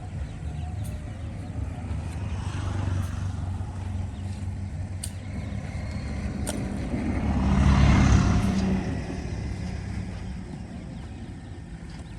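A vehicle engine running steadily, growing louder to a peak about eight seconds in as it passes close, then fading. A few sharp clicks come shortly before the peak.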